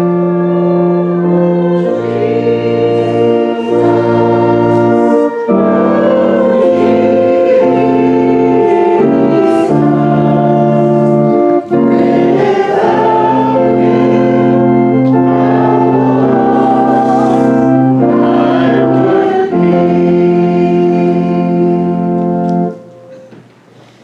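Congregation or choir singing a hymn with organ, held chords changing every second or two; the music stops near the end.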